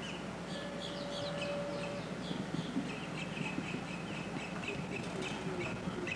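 Birds chirping repeatedly over a steady low hum, with a brief steady tone during the first two seconds.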